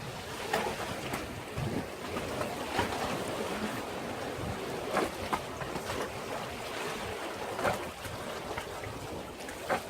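Sea waves washing against a breakwater, a steady wash broken by short, sharp splashes at irregular moments.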